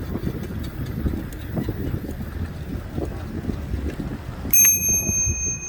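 Wind and riding rumble on the microphone of a moving bicycle, then about four and a half seconds in a bicycle bell is struck once and rings on with a clear high tone.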